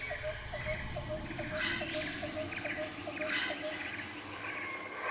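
Jungle ambience: a steady chorus of insects and crickets, with a short call repeated about three times a second that stops a little before the end, and scattered bird chirps above it.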